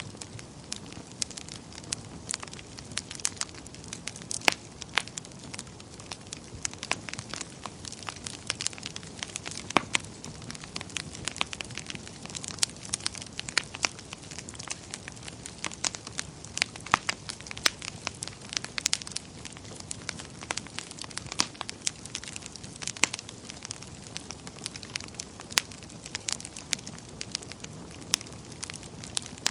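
Wood fire in a fireplace crackling, with frequent irregular sharp pops over a steady low rushing of flames.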